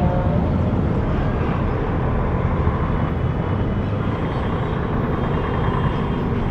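Steady city street traffic: a continuous wash of passing cars, engines and tyre noise on the road.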